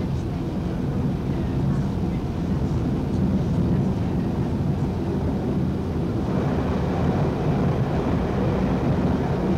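Diesel train running along the track, heard from the driver's cab: a steady low engine drone with wheel and rail noise. A higher rushing noise grows louder about six seconds in.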